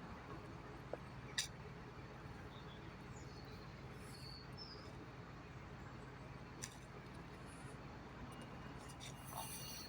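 Faint, steady rumble of road traffic from a nearby main road, with a couple of sharp clicks and a few faint high chirps.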